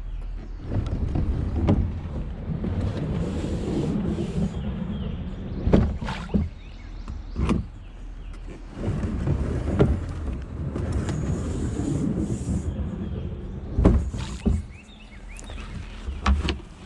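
A sea kayak being handled and slid at a launch: uneven scraping and rumbling of the hull, with about half a dozen sharp knocks.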